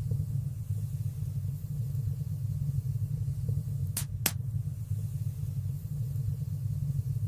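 Wood fire burning in a stone fireplace: a steady low rumble of flames, with two sharp crackling pops about four seconds in.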